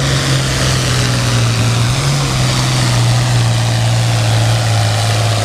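International Harvester 966 tractor's engine at full throttle pulling the weight sled, running steadily loud with its low pitch slowly sinking under the load.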